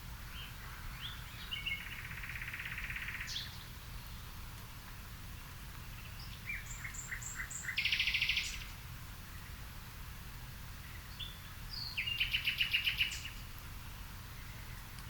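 A songbird singing three phrases about five seconds apart, each a few short separate notes running into a fast trill, over a low steady background rumble.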